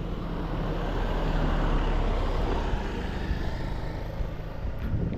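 A road vehicle passing, its engine and tyre noise swelling to its loudest about two seconds in and then fading away.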